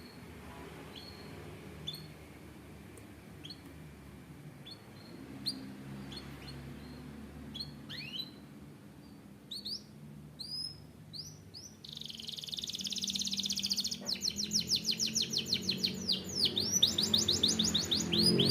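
Domestic canary singing: scattered short chirps at first, then from about twelve seconds in a louder, fast trill of rapidly repeated notes, breaking into sweeping whistled notes near the end.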